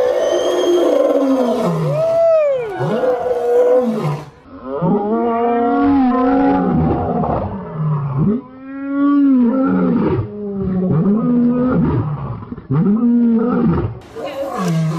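An animal calling over and over: loud, drawn-out cries one after another, each about a second long and rising then falling in pitch.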